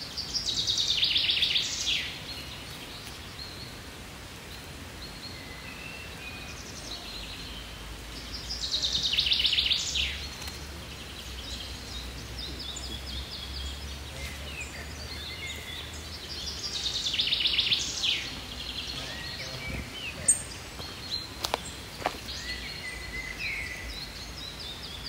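A songbird singing the same fast, trilled phrase, about a second and a half long, three times at gaps of roughly eight seconds, with fainter calls of other birds in between. A few sharp clicks come near the end.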